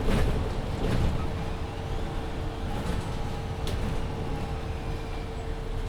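Cabin sound of a MAN Lion's City 19C EfficientHybrid articulated diesel-hybrid bus running: a dense low rumble with a steady hum over it. A few short rattles or knocks come at the start, about a second in and near the middle.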